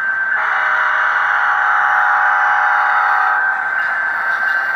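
HO-scale Amtrak P42 model locomotive's sound decoder sounding its horn: a single chord of several tones held for about three seconds, starting about half a second in. A thin, steady high whine from the model runs beneath it.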